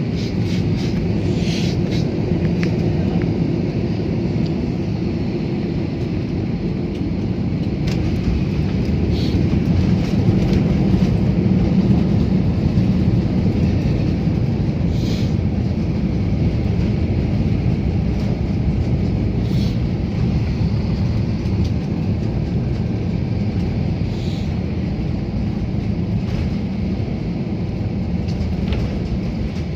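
Airliner cabin noise during landing: a steady low rumble of the engines and airflow, swelling a little about ten seconds in, with a few faint rattles.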